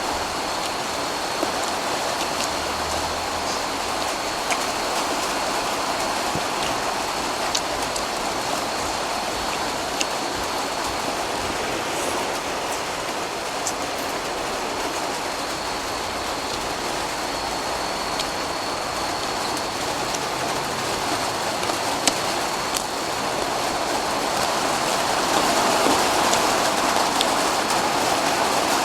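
Rain falling steadily: an even hiss with scattered drop ticks, growing a little louder near the end.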